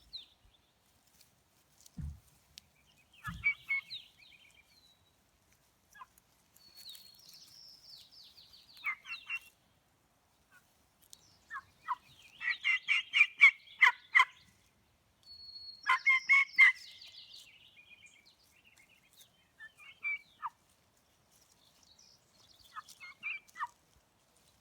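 Wild turkeys gobbling: a series of fast, pulsed gobbles, the loudest near the middle, with quieter calls between them.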